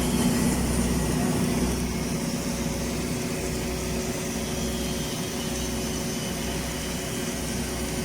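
Steady machine hum with a low drone and a few constant tones, from the welding equipment running.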